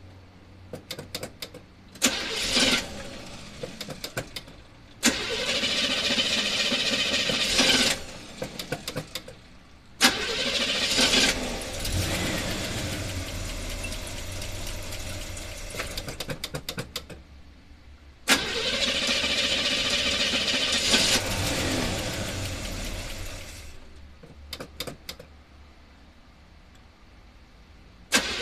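1976 Chevy Blazer's engine started about four times over. Each time it catches suddenly, runs for a few seconds, then fades into irregular sputtering pops and dies.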